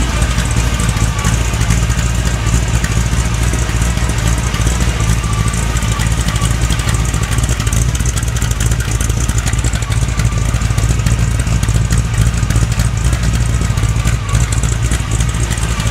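1957 Chevy's 350 small-block V8 on two four-barrel carburetors running steadily, with the noisy gear whine of its Pete Jackson gear drive. The engine runs extremely rich.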